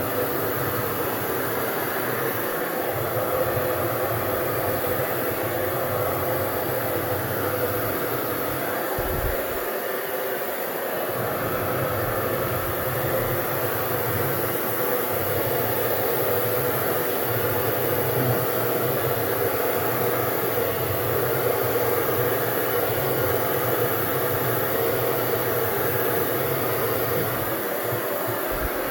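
Hand-held hair dryer running steadily, with its low hum briefly dropping out about nine to eleven seconds in.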